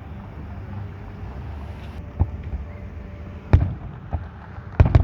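Fireworks bursting: a single sharp bang about two seconds in, a louder one past the middle, and a close loud pair near the end, over a steady low rumble.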